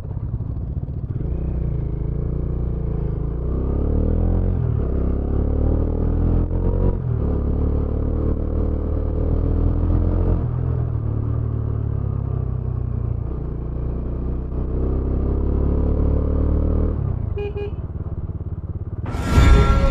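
Motorcycle engine pulling through the gears while riding, its pitch climbing and dropping back several times as it shifts. A sudden loud rush of noise cuts in near the end.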